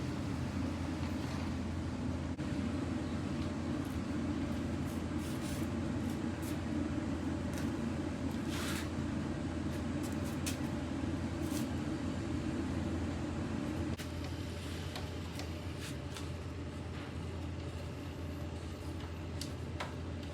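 Belt conveyor running: a steady mechanical hum with scattered light clicks, easing slightly in level partway through.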